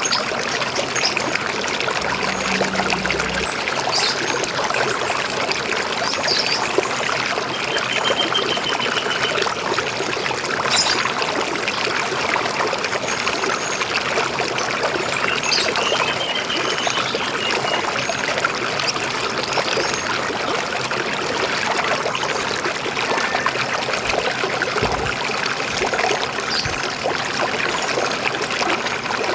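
River water flowing steadily with a trickling, gurgling rush. Small birds chirp now and then above it, including two short rapid trills.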